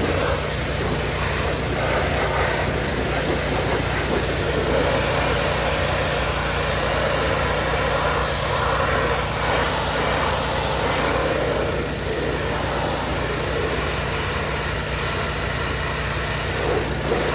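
Hot water pressure washer's engine running steadily under the hiss of the high-pressure hot water spray blasting grease off metal equipment.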